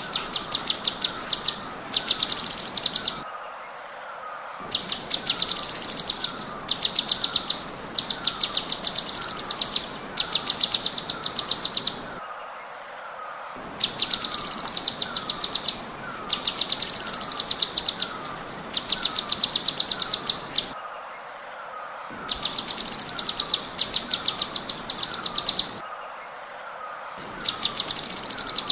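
White-rumped shama (murai batu) singing: high, rapid clicking trills in phrases of one to two seconds with short pauses between them, over a lower downward chirp repeated steadily more than once a second.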